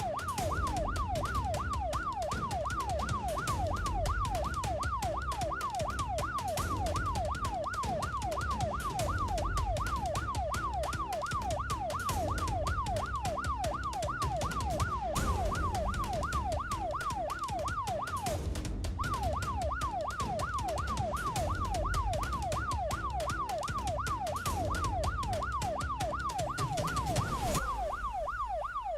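Police siren on a fast yelp setting, its pitch sweeping up and down about three times a second, with a brief break about two-thirds of the way through. Under it runs a steady low rumble of engine and road noise from the pursuing vehicle.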